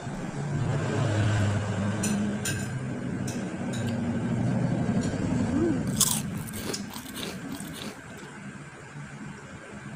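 A person eating fish with their fingers: close-up chewing and lip-smacking, with sharp wet clicks around two seconds in and again about six seconds in.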